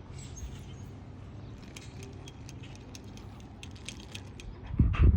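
Scattered light jingling clicks over a steady low rumble, then a couple of heavy low thumps on the microphone near the end.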